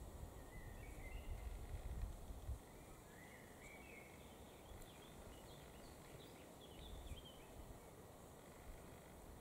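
Faint birdsong: a small bird's short, twittering phrases. A low rumble underneath dies away after about two and a half seconds.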